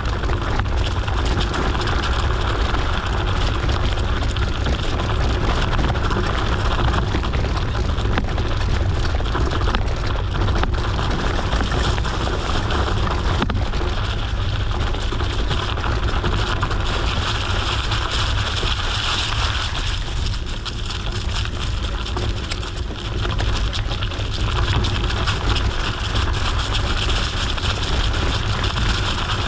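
Steady wind buffeting the microphone over the rolling noise of a mountain bike's tyres on a gravel forest road.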